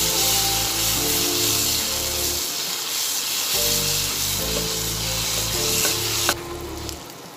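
Tomatoes and onions sizzling in hot oil in a nonstick kadai as they are stirred with a wooden spatula. The sizzling cuts off abruptly about six seconds in. Background music with steady notes plays underneath.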